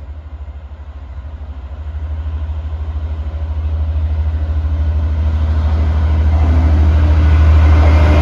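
Diesel freight locomotive approaching, its engine's deep, pulsing rumble growing steadily louder.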